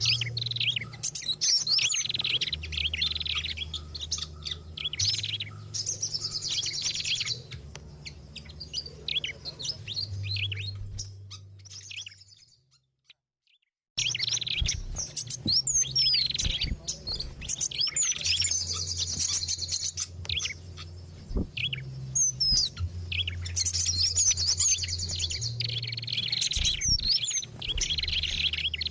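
Dense, agitated chattering and chirping calls of several small songbirds mixed together, a bird-trapping lure track, over a low hum. The calls fade out about twelve seconds in, stop for a second or so, then start again at full level as the loop restarts.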